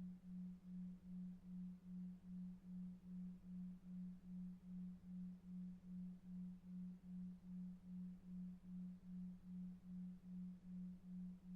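A low, steady sine-like tone pulsing evenly about two and a half times a second, a 2.5 Hz delta-wave sleep tone, over a faint low brown-noise hiss.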